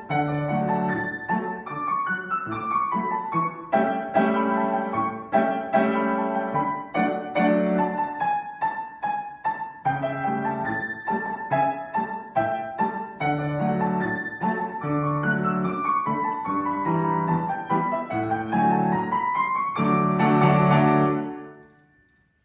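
Piano playing a classical piece, a stream of notes and chords. Near the end a rising run climbs into loud final chords, then the sound stops.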